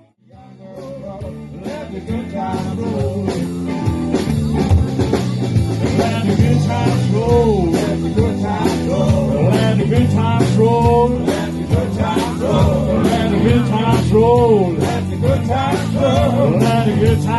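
Live blues-rock band playing an instrumental passage, starting up after a brief pause; a lead line bends notes up and down over a steady bass and beat.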